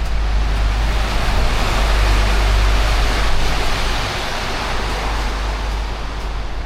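A vehicle passing on a wet road, its tyre hiss swelling to a peak a couple of seconds in and then fading, over wind buffeting the microphone.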